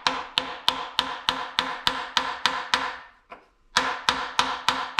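Steady hammer blows on a metal bearing driver, about three a second, each with a ringing metallic note, driving a new bearing into its bore in a CAT D4D diesel engine block. The blows pause briefly a little after three seconds, then carry on at the same pace.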